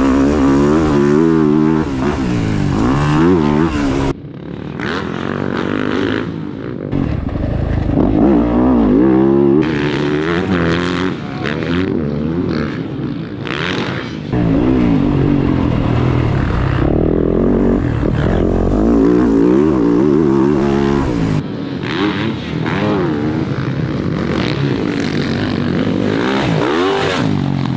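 Motocross dirt bike engine running hard on a fast lap, revving up and falling back over and over as the rider works the throttle and gears. The sound dips suddenly about four seconds in, then climbs again.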